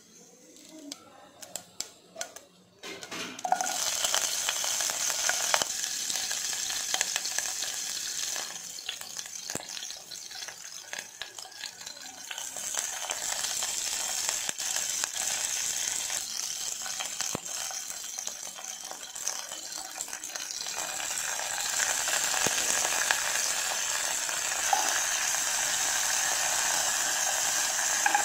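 Chopped green chillies and curry leaves sizzling in hot oil with mustard seeds for a tempering. After a few faint pops, the sizzle starts suddenly about three and a half seconds in and holds steady. A metal spoon stirs through it near the end.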